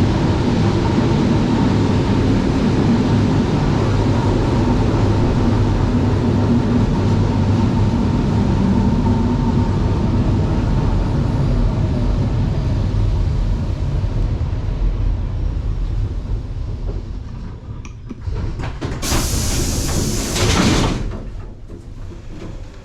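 Passenger train running with a steady rumble that fades as it slows to a stop, then a loud hiss of compressed air lasting about two seconds near the end.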